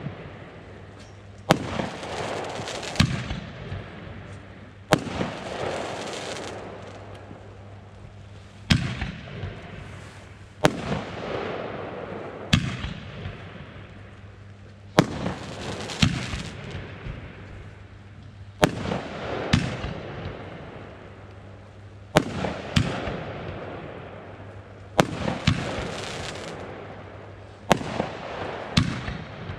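Consumer firework battery firing shot after shot: a sharp bang every one to two seconds, some in quick pairs, each trailing off in a noisy fade lasting a second or two.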